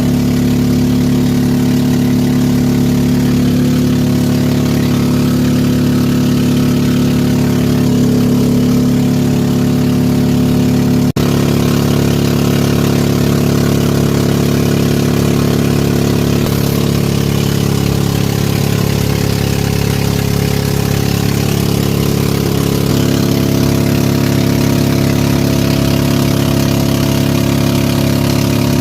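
A boat's engine running steadily at an even pitch, with a momentary break in the sound about eleven seconds in.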